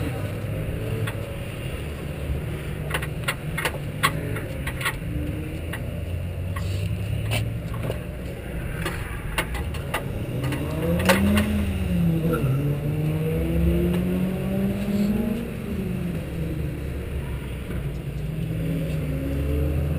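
Mazda MX-5 Cup car's four-cylinder engine idling steadily while parked. Around the middle an engine revs up and down twice in a rising and falling pitch, and a few sharp clicks and clatters come a few seconds in.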